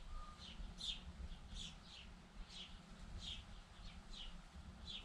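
A bird chirping over and over: short, high chirps that fall in pitch, one every second or less.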